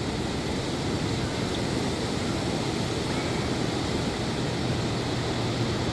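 Steady wash of ocean surf, with a faint low hum underneath that grows a little stronger about two thirds of the way in.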